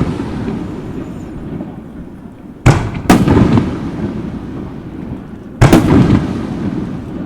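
Aerial fireworks shells bursting overhead. Two loud booms come about two and a half seconds in and about three seconds later, each a quick double report followed by a rumbling echo that fades.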